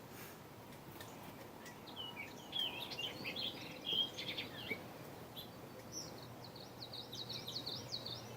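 A small bird chirping: a run of short, varied chirps about two seconds in, then a quicker string of short chirps near the end, over a low steady background noise.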